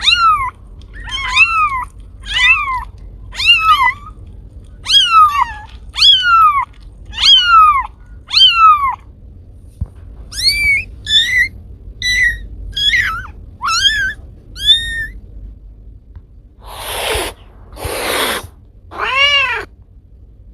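Domestic cat meowing over and over, about once a second, each meow falling in pitch, then a run of shorter, higher meows. Near the end come two short hisses and one last meow.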